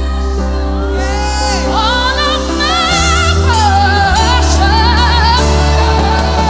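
Gospel worship music: a solo singer drawing out wordless, bending notes with heavy vibrato over sustained chords and a steady bass.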